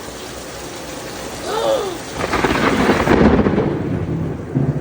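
Loud clap of thunder from a very close lightning strike over steady rain. It breaks about two seconds in and rumbles on for about two seconds before easing.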